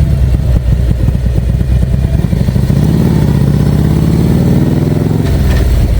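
Harley-Davidson Street Glide V-twin engine running while riding, its pitch rising a little about halfway through and then holding steady.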